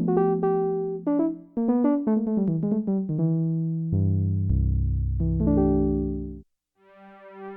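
Roland JX-8P analog polysynth playing an electric-piano-like factory patch: short struck notes and chords that die away, then low held notes that stop about six and a half seconds in. Near the end a different patch fades in, a slow-swelling, wavering chord.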